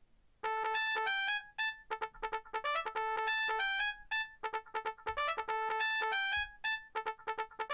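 Nokia 3590 mobile phone ringtone: a bright electronic melody of quick beeping notes that starts about half a second in and repeats its short phrase roughly every two seconds.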